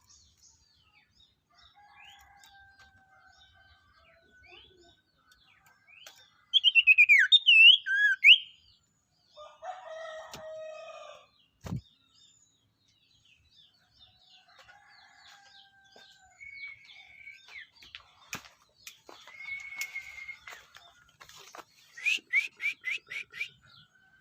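Songbirds singing: scattered chirps and whistled notes, with a loud warbling phrase about seven seconds in, a lower call that may be a rooster's crow or a chicken's cluck around ten seconds, a sharp click near twelve seconds, and a quick run of five or six repeated notes near the end.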